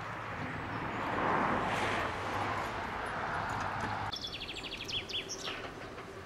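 Steam-hauled train running away in the distance, a steady rushing rumble that swells about a second in and then cuts off abruptly about four seconds in. Birds chirp after the cut.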